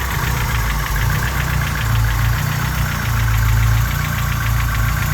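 Honda G23 engine idling with a fast, light, even knock ("ta ta ta ta") from piston slap around cylinders 1 and 2, clattering like an old Volkswagen diesel. The owner says the knock goes away once the engine warms up, and he blames the piston skirt.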